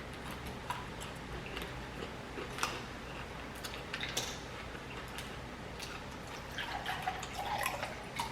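Close-miked eating: wet chewing, lip smacks and mouth clicks in scattered short bursts, busiest near the end.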